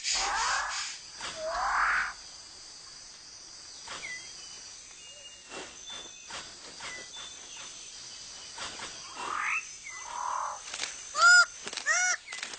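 New Guinea rainforest birds calling over a steady high insect drone: two loud rising calls at the start, scattered short calls in the middle, then a fast series of repeated harsh calls, about two or three a second, beginning near the end.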